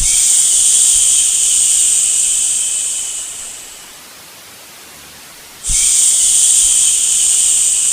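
A person shushing a baby to sleep: two long 'shhh' sounds, each starting abruptly and fading away over a few seconds, the second starting just before six seconds in. A faint steady hiss lies underneath.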